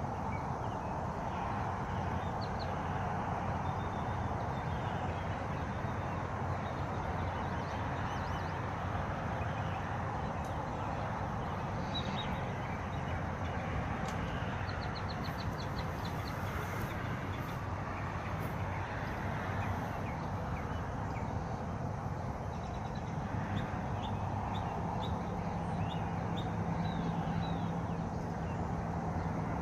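Birds chirping on and off, with a quick run of rapid high notes in the middle, over a steady rushing background. A low steady hum joins near the end.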